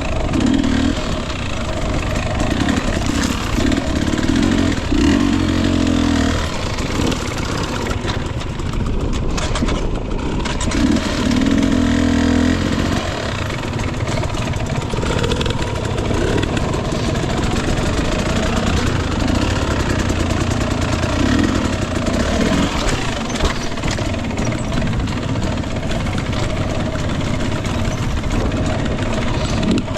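Husqvarna TE 250i two-stroke dirt bike engine under a rider's throttle, revving up in short bursts of a second or two and falling back between them, as on a slow technical trail.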